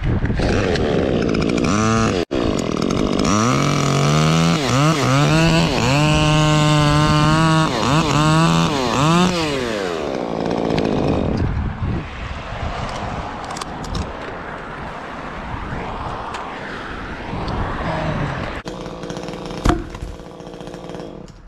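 Stihl MS 150 T top-handle chainsaw, with an opened-up muffler and advanced ignition timing, revving in a few short blips, then held at high revs through a cut with brief dips. It drops off about ten seconds in.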